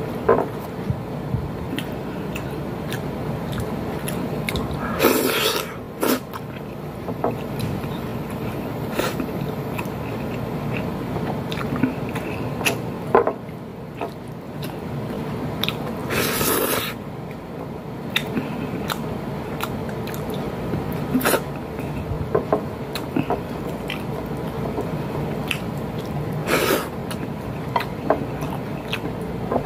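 Close-up chewing and lip-smacking of a person eating pork menudo and noodles by hand, with frequent small wet mouth clicks. A few louder brief rushes of noise break through now and then.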